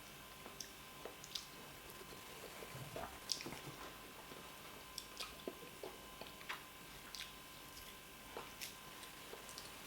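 Faint, soft wet eating sounds: chewing and squishing with scattered small clicks, and one louder knock about three seconds in.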